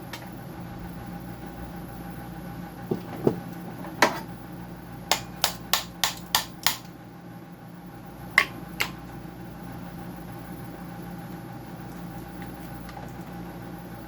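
A tool knocks sharply against the dehumidifier's parts: a few single knocks, then six in quick succession at about three a second, then two more. A steady machine hum runs underneath.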